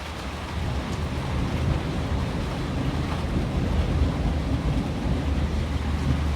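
Rain and wind, a steady hiss over a heavy low rumble, growing louder about half a second in.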